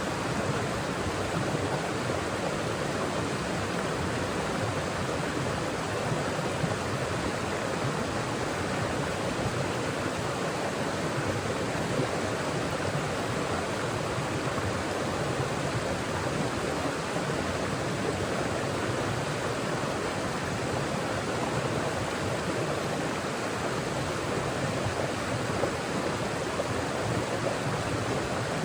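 Mountain forest stream: water rushing and splashing over rocks in a steady, even wash.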